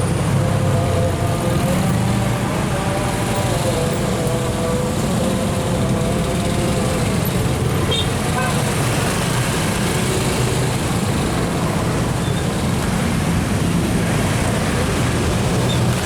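Congested road traffic: the engines of vehicles idling and crawling in a jam make a steady rumble with road noise.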